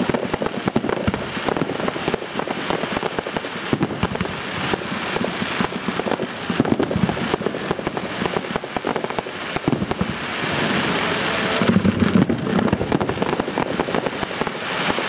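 Fireworks display: a dense, nonstop string of bangs and crackling reports from aerial shells and low bursts. A rushing hiss joins in around ten seconds in, followed by the loudest bangs about two seconds later.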